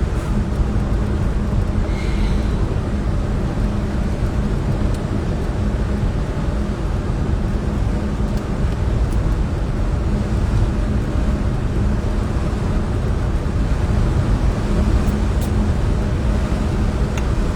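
Steady road and engine noise inside a moving car's cabin, a constant low rumble with a faint even hum.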